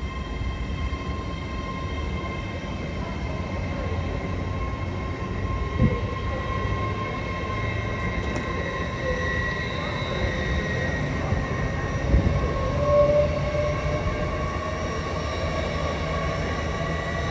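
Passenger train moving slowly at the platform: a low rumble and a steady whine, with a tone that slowly rises in pitch as it gathers speed. Two dull clunks come about six and twelve seconds in.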